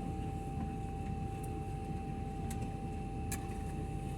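Airliner cabin noise: a steady low rumble with two steady humming tones, and a few faint sharp clicks.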